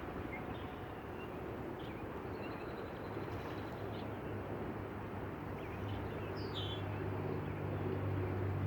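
Outdoor ambience: small birds chirping a few times over a steady background noise, with a low engine hum that grows louder toward the end.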